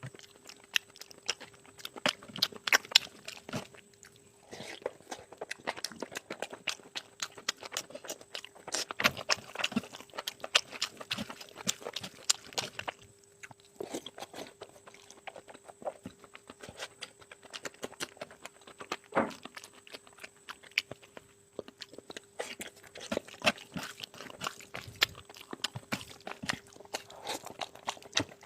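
Close-miked eating: a person chewing and biting big mouthfuls of oily curry and rice, a dense, irregular run of wet mouth clicks and smacks broken by a few short pauses.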